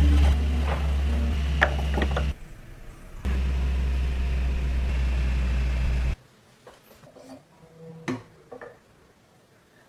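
A small electric motor runs with a steady low hum, stops briefly about two seconds in, then runs again and cuts off sharply about six seconds in. A few light clicks and knocks follow.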